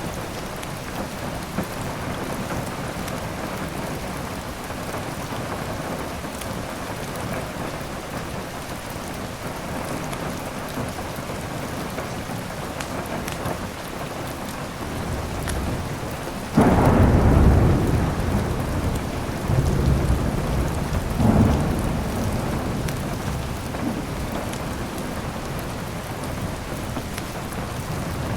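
Steady rain falling. A little over halfway through, a sudden clap of thunder breaks in and rumbles for several seconds, swelling again once before dying away under the rain.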